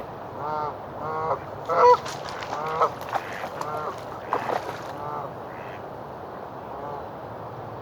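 Geese honking, a series of calls coming roughly once a second, loudest about two seconds in and thinning out toward the end, with a few sharp clicks among them in the middle.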